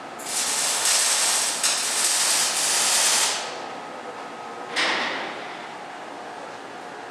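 Compressed air venting with a loud hiss for about three seconds, then cutting off, followed by a second, shorter blast about five seconds in that fades away.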